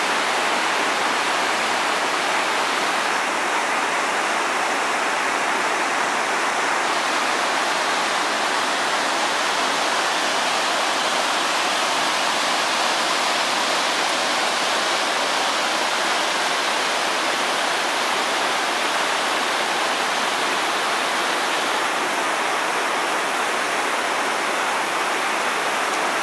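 Kleivafossen waterfall, a steady, unbroken rush of falling water with little deep rumble.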